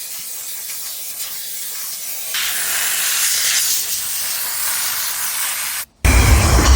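High-pressure spray from a self-service car wash wand, a steady hiss that grows louder and brighter about two seconds in. Near the end it cuts off abruptly and a loud low rumble takes over.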